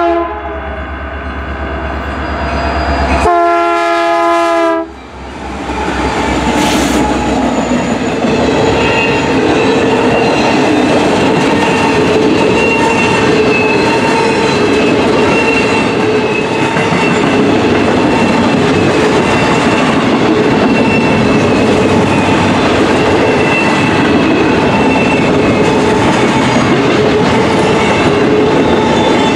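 Freight train passing close by: the BNSF diesel locomotives go past with a horn blast about three seconds in that lasts roughly two seconds. Then a long string of loaded double-stack container cars rolls by with steady wheel-on-rail rumble and clatter.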